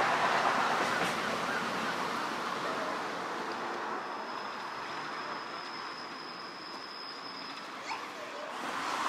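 Narrow-gauge steam train running away into the distance, its rumble fading over the first few seconds. A faint, steady high whine follows in the second half.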